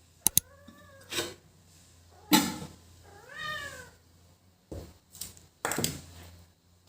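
A domestic cat meows twice, each call rising and then falling, about two and a half seconds apart. Two sharp clicks come just before the first meow, and short knocks and clatters fall between and after the calls, the loudest about two seconds in.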